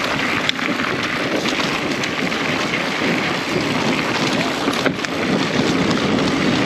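Wind rushing over a mountain biker's action-camera microphone while riding, a steady loud rush with a few sharp clicks, about half a second in and near five seconds.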